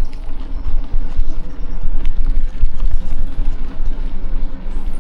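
Wind buffeting the microphone and a bike rattling over rough off-road ground, with scattered knocks and a faint steady hum underneath.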